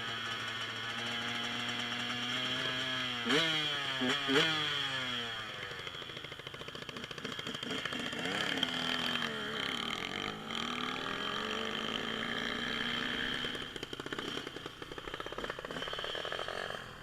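Dirt bike engine running, blipped sharply twice about three and four seconds in, then its pitch falling and rising as the throttle varies.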